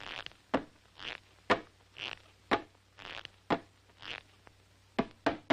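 Cartoon sound effects in a steady rhythm: a short breathy hiss alternating with a quick sharp falling zip, about one pair a second, with two more quick zips close together near the end.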